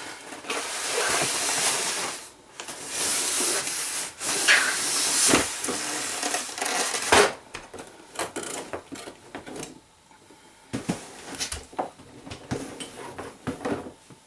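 Cardboard train-set box being opened by hand: several seconds of loud rubbing and sliding of the lid, broken by sharp knocks, then quieter clicks and rustles as the packaging inside is handled.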